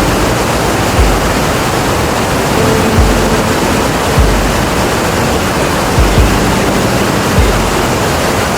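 Iguazu Falls: the steady, dense roar of a very large waterfall, with low thuds every second or two.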